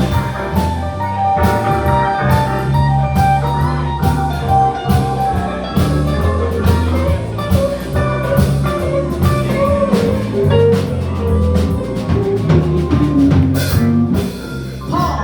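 Live blues band playing an instrumental break: a drum kit keeps a steady beat under bass and a lead guitar line with bent notes.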